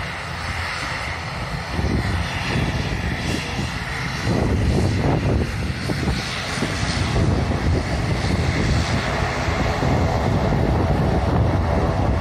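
Jet airliner engines passing low overhead, a dense rumble with a thin whine at first, growing louder about two and again about four seconds in. Uneven low gusts of wind buffet the microphone.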